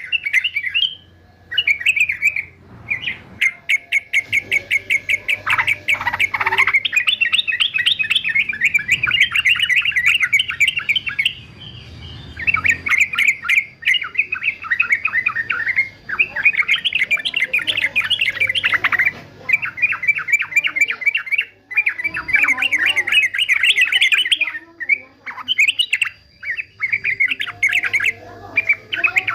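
Male yellow-vented bulbul (trucukan) singing in long runs of rapid, chattering notes with short breaks between bursts.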